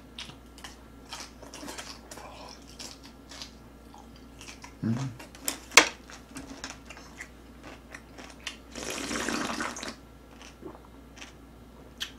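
Close-up chewing of crunchy altari radish kimchi: small wet crunches and mouth clicks, with a short low grunt about five seconds in and a second-long hissing sound about nine seconds in.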